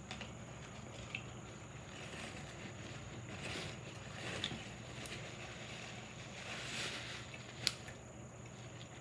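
Faint eating sounds: chewing and the rustle of handling a sandwich, over a low steady hum, with one sharp click near the end.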